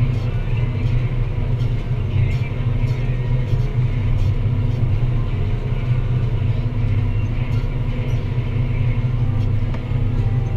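Deutz-Fahr Agrotron 165 MK3 tractor's six-cylinder diesel engine running steadily under load while pulling a plough: a constant low drone with faint ticks and rattles above it.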